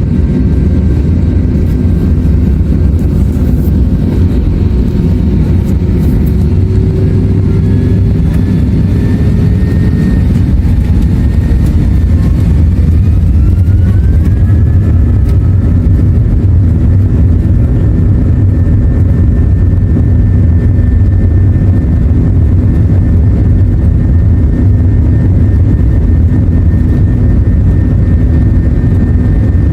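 Airbus A321 takeoff heard from inside the cabin: a loud, steady, deep rumble of the jet engines, with thin engine whines that rise in pitch through the first half and then hold steady.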